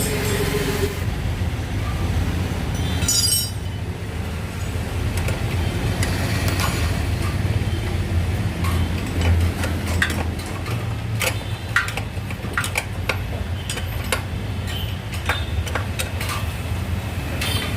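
Royal Enfield Bullet's single-cylinder engine running steadily, with scattered sharp clicks over the second half.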